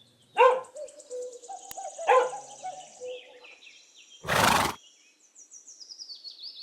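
Horse neighing several times, with a short noisy blow about four and a half seconds in. A falling, quavering whinny builds toward the end.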